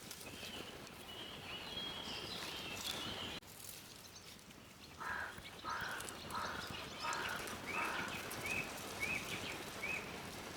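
Birds calling. A high twittering cuts off abruptly a few seconds in. After it comes a run of five repeated calls about half a second apart, then shorter, higher chirps in the same rhythm.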